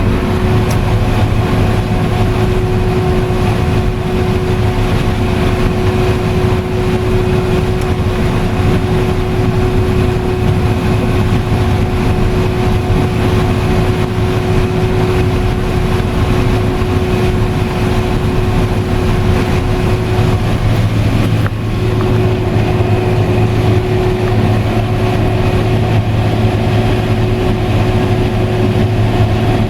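Combine harvester running steadily while harvesting corn, heard from inside the cab: a loud, even machine noise with a steady whine over a low hum.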